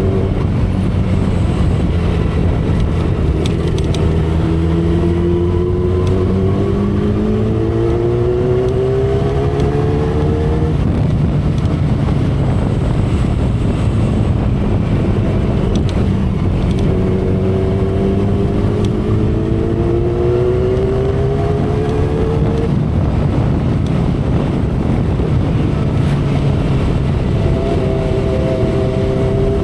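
2012 Kawasaki Ninja ZX-10R's inline-four engine under way, its note climbing in pitch three times and dropping back in between, over a steady rush of wind.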